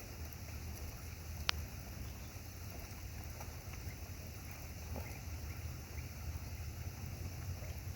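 Ducks splashing and paddling in water in the rain, over a steady low rumble, with one sharp tick about a second and a half in.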